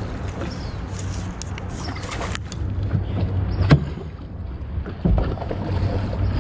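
Kayak on moving water with wind rumbling on the microphone and water noise, and a few sharp knocks. The loudest knock comes about three and a half seconds in, another about five seconds in.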